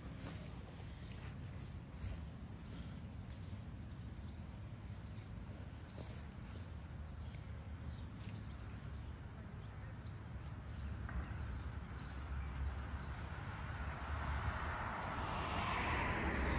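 A small bird chirping over and over, one short high chirp about every half second, over a steady low rumble. Near the end a car's tyre and engine noise swells as it approaches along the street.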